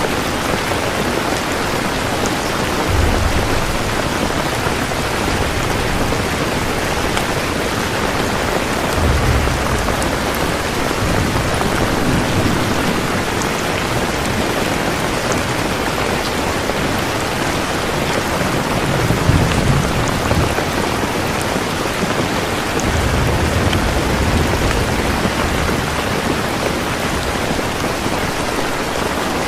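Steady rain falling, with several brief low rumbles of thunder, the strongest a little past the middle.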